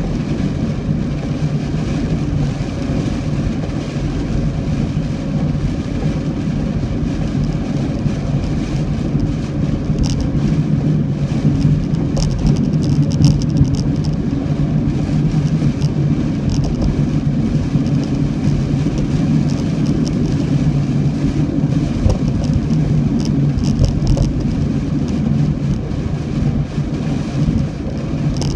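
A car driving along at a steady pace: a constant low engine and road rumble, with a few brief hissy flickers over it.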